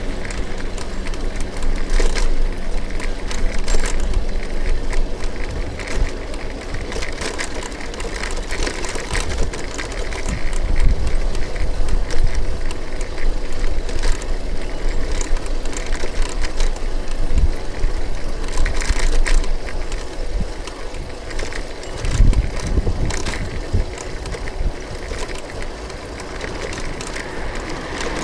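Noise of a bicycle being ridden on city streets: tyres on the road with frequent clicks, rattles and knocks, over a steady, uneven low rumble.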